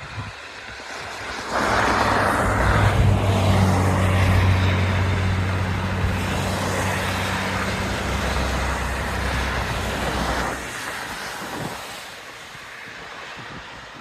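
Motor vehicle engine running close by, with a steady low engine note under a hiss. It comes up loud soon after the start and drops away about ten seconds in, leaving quieter background traffic noise.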